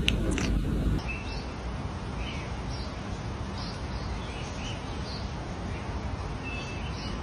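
Steady background hiss with faint, short bird chirps scattered every half second or so. A brief high-pitched sound comes right at the start.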